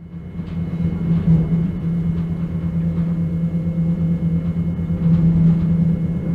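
Bombardier BSP25T sleeper-carriage train running steadily: a continuous rumble with a constant low hum.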